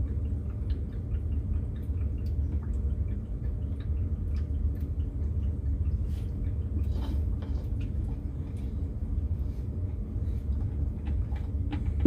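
Water draining out of the well system's plumbing after the pressure tank has been disconnected. It makes a steady low rumble with scattered faint ticks.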